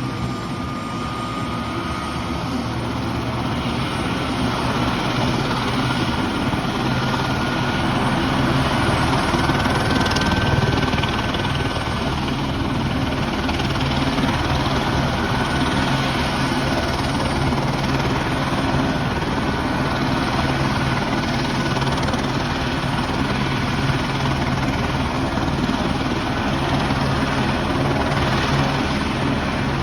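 Airbus AS350 Esquilo (Écureuil) helicopter running close by, its turbine and main rotor giving a continuous steady drone with a low hum underneath. It swells slightly over the first several seconds, then holds even.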